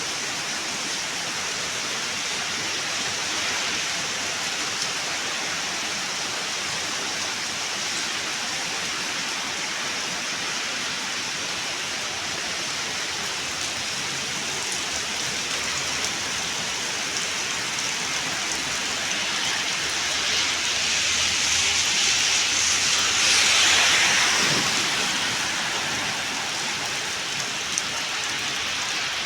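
Heavy rain falling in a steady hiss. About two-thirds of the way through, a louder swell of hiss rises and fades over a few seconds.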